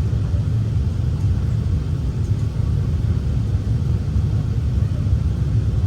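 Steady low rumble of an Airbus A380 airliner, heard from inside the passenger cabin as it moves on the ground or climbs out.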